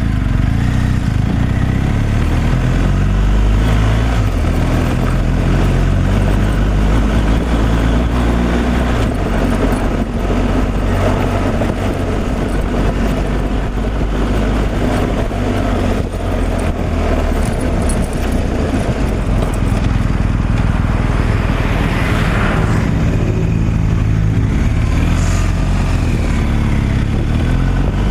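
Steady engine drone and road noise of a vehicle being driven, with a brief swell of hiss about 22 seconds in.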